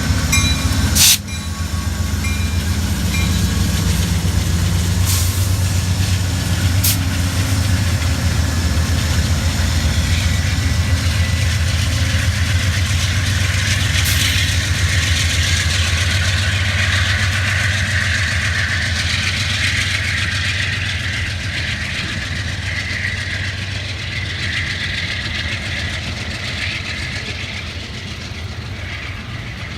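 Train rolling past on the rails: a steady low diesel locomotive rumble with wheel and rail noise, and a sharp click about a second in. The noise eases off gradually near the end.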